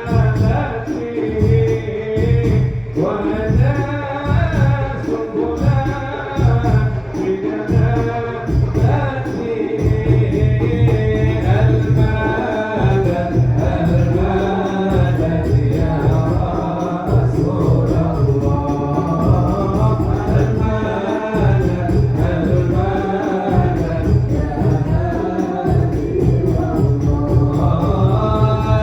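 Sholawat sung by a male voice in long, ornamented lines over hadrah frame drums (rebana) beating a steady, dense rhythm.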